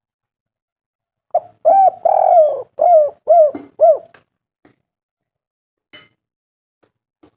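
Spotted dove (tekukur) cooing: one phrase of about six coos, beginning about a second and a half in, with a longer rolling coo early on and three short, falling coos at the end, followed by a faint click.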